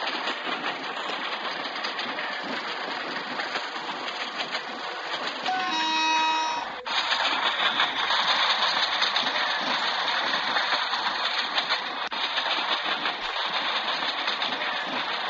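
Train running on the rails with a steady rushing noise. About halfway through, a horn sounds for just over a second and cuts off sharply.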